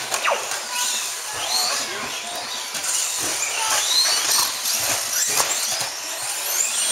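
Several 2WD RC stadium trucks racing together, their motors whining high and overlapping, each rising and falling in pitch as the trucks speed up and slow down.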